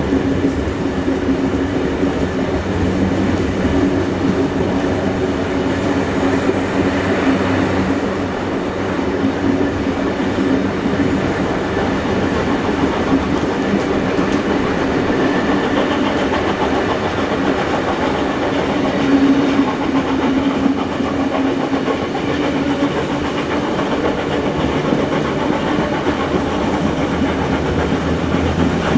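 Steam-hauled passenger train running at speed, heard from a carriage behind locomotives 3526 and 3265: a loud, steady rolling noise of the carriage wheels on the rails.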